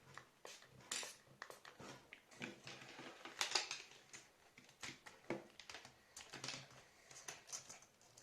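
Small plastic headphone parts being handled: irregular light clicks, taps and scrapes, with a denser scratchy patch about three and a half seconds in.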